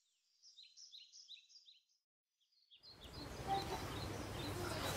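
A small bird chirping: a quick run of short, high, falling chirps over the first two seconds, a few more just after. From about three seconds in, steady outdoor background noise with a low hum takes over.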